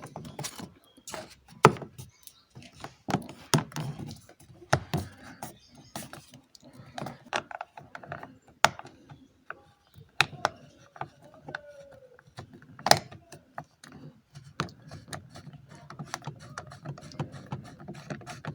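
Irregular clicks and knocks of tools and parts being fastened back into a car door.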